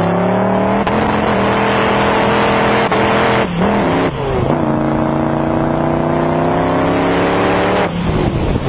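Engine revved up and held at high revs, its pitch climbing, then steady with two brief dips around the middle before it climbs again. It falls away near the end.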